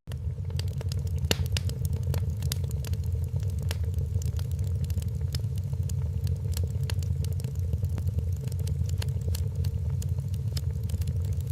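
Wood fire in a fireplace crackling, with many irregular sharp pops and snaps over a steady low rumble of the burning logs.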